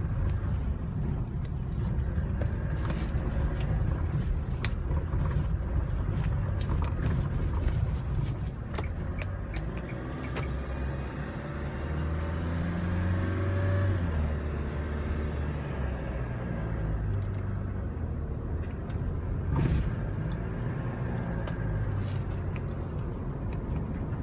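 Engine and road noise inside the cab of a one-ton pick-up truck on the move, a steady low drone whose pitch shifts up and down around the middle, with scattered clicks and rattles.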